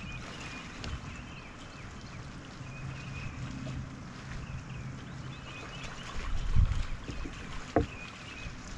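Water lapping against a kayak hull, with wind gusting on the microphone, strongest about six and a half seconds in and again near the end.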